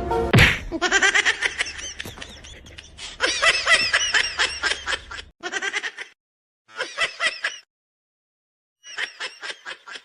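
High-pitched laughter in several bouts, each a quick run of short 'ha' bursts, with silent breaks between bouts. A brief knock comes right at the start.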